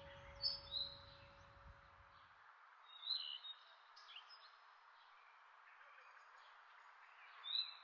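Small birds giving a few short, high chirps, scattered over a faint background hiss.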